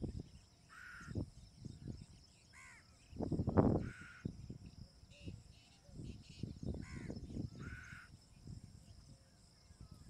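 Bird calls: a short call repeats about every three seconds over faint chirps of other birds, with irregular low rumbles coming and going, the loudest a little past three seconds in.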